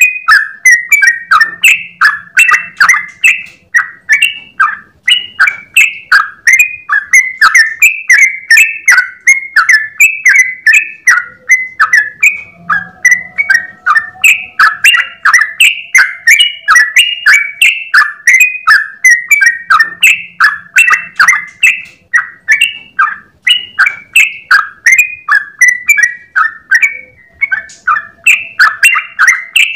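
Yellow-vented bulbul (trucukan) singing in rapid-fire 'ropel' style: an unbroken run of short, bubbly notes repeated a few times a second, kept up as one long continuous phrase.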